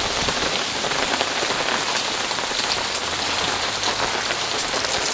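Heavy rain pouring down and drumming steadily on an umbrella held overhead, a dense patter of countless drops.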